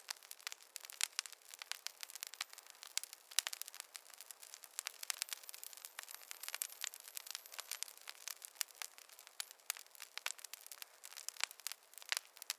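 Wood campfire crackling: a dense, irregular run of sharp pops and snaps over a soft hiss.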